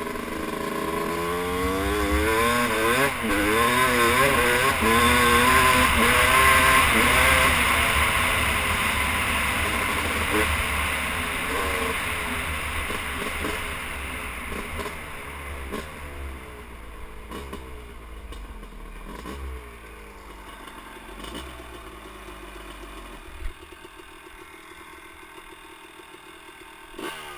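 Rebuilt Yamaha YZ250 two-stroke dirt bike being ridden on light throttle, its engine pitch rising and falling over and over as it revs and shifts. Loudest a few seconds in, then it fades as it moves off into the distance.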